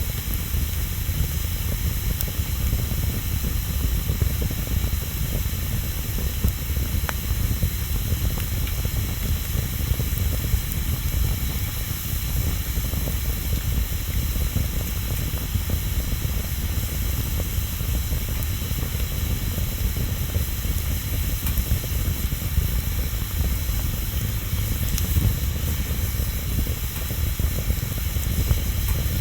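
Bonfire burning: a steady hiss over a low rumble, with an occasional faint crackle.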